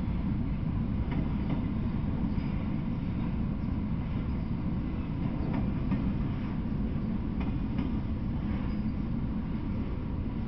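Freight train of autorack cars rolling past: a steady low rumble with light clicks from the wheels now and then.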